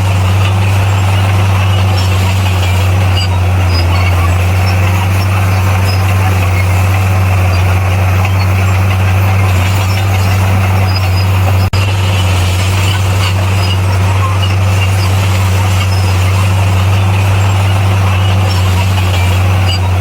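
Bulldozer's diesel engine running steadily under work, a loud, constant low drone, with a momentary break in the sound a little past the middle.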